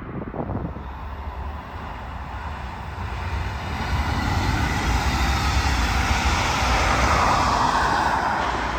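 A train passing on the track. Its rolling noise builds steadily, is loudest about seven seconds in, then eases a little.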